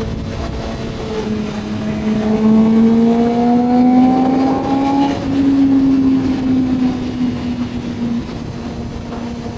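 Honda CBR motorcycle engine pulling under way, its note climbing slowly for about five seconds as it accelerates, then easing back and settling to a steady pitch.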